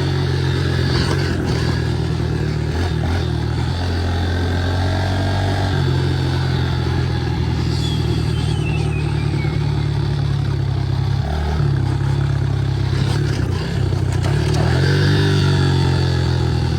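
2017 Honda 110 pit bike's small single-cylinder four-stroke engine running as it is ridden. The engine note shifts up and down a few times with throttle changes.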